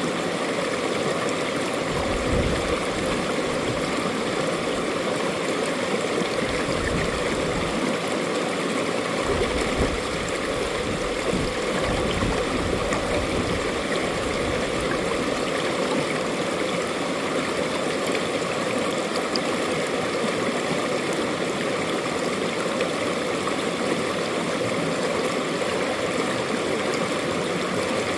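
Mountain valley stream flowing over rocks, a steady rushing and gurgling of water with no break, with a few brief low rumbles in the first half.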